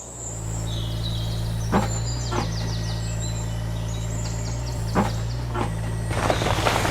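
A small engine running steadily at a low, even pitch, with birds chirping and a few light knocks.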